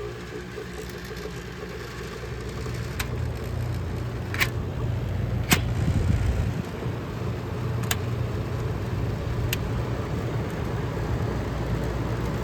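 Vintage window air conditioner starting up. Its fan and compressor hum builds over the first several seconds, then settles into a steady run, with a few sharp clicks along the way.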